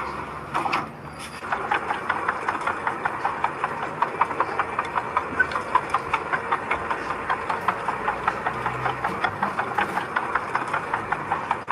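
Heavy construction machine's engine running with a steady, rhythmic clatter of about four knocks a second, which sets in about a second and a half in.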